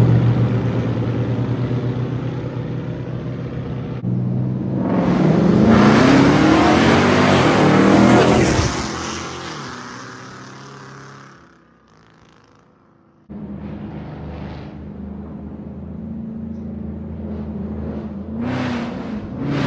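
Straight-piped Dodge R/T HEMI V8 exhaust: the engine running steadily, then a car accelerating hard with the note rising in pitch and fading away into the distance. After that comes a steady idle, with two short revs near the end.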